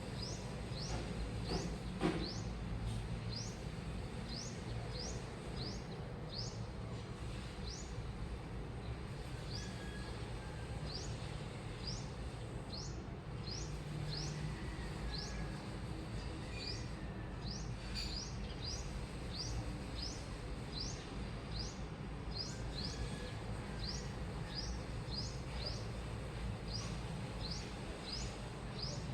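Washing machine running with a steady low hum, under a short high rising chirp repeated about one or two times a second at a slightly uneven pace.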